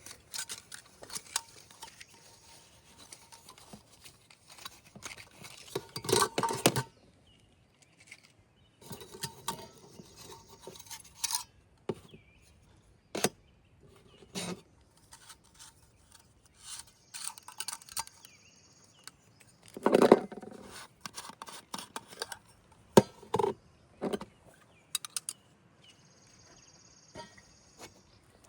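Camp cookware and utensils being handled: irregular clinks, scrapes and knocks, with louder clusters about six seconds in and again about twenty seconds in.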